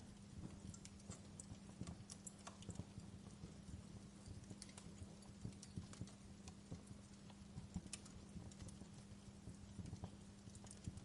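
Wood fire in a fireplace crackling: irregular sharp pops and snaps from the burning firewood, several a second, over a soft steady flame hiss and a faint low hum.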